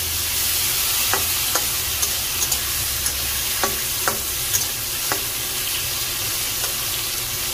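Ridge gourd pieces sizzling in hot oil in a metal kadai, lightly frying after a nigella-seed tempering. A metal spatula stirring the pieces gives sharp clicks against the pan about once or twice a second.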